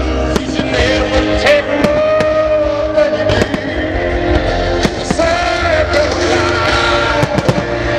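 Musical-theatre music playing loudly, with firework shells bursting in many sharp bangs at irregular intervals throughout.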